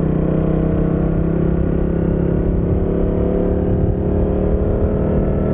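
Motorcycle engine running at a steady speed while riding, with a low rumble of wind on the microphone.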